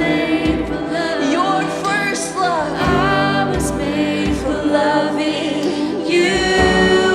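Live worship music: a band with sustained keys and a steady drum beat, with a singer and congregation singing a slow melody.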